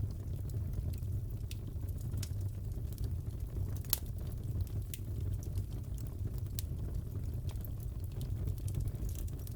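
Fireplace fire crackling: a steady low rumble of burning with scattered sharp pops and snaps, one louder pop about four seconds in.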